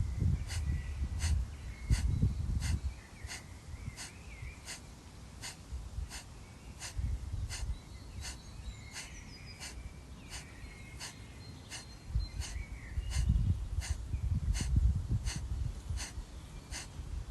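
Kapalabhati pranayama breathing: a steady run of short, forceful nasal exhalations, about two a second, each a sharp puff with a passive inhale between. A low rumble comes and goes underneath, strongest near the start and the end.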